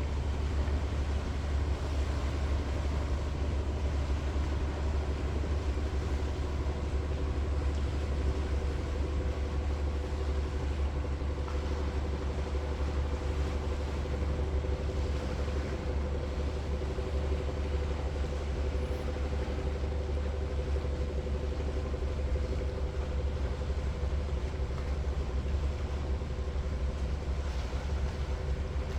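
Fishing boat engine running steadily: a constant low rumble with a steady hum over it.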